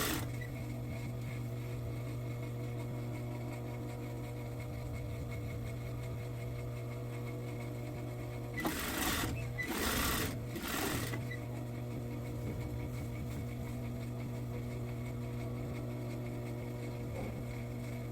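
Sewing machine running steadily, stitching a seam. Its hum breaks off between about nine and eleven seconds in for three short bursts of noise.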